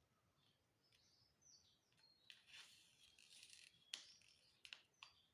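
Faint crinkling and sharp clicks of paper being handled and creased, with a longer rustle in the middle. Small birds chirp in the background with short, falling calls.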